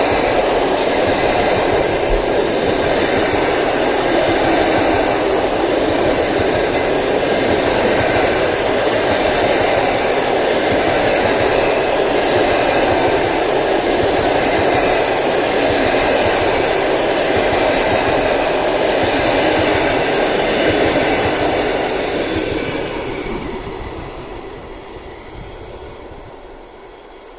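A long passenger train hauled by an EP1 electric locomotive passing close by: a steady, loud rumble and rattle of coach wheels on the rails, which fades away over the last five seconds as the end of the train goes by.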